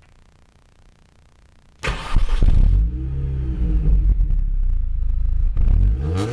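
Mini Cooper S R53's supercharged 1.6-litre four-cylinder engine starting about two seconds in, then revved up and down several times.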